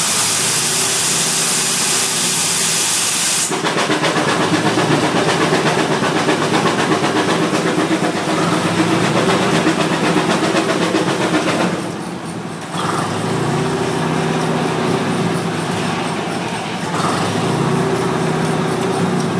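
Keck Gonnerman steam traction engine running under load: a loud hiss of escaping steam cuts off sharply about three and a half seconds in. After that the engine runs steadily with a quick, even beat, briefly dropping quieter about twelve seconds in.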